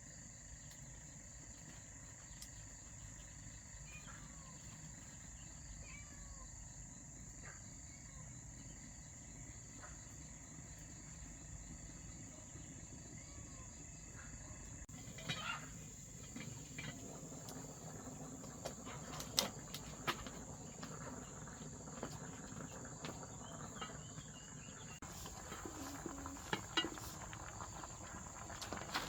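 Insects calling in one steady, high, unbroken drone. About halfway through, scattered sharp knocks and clicks join in.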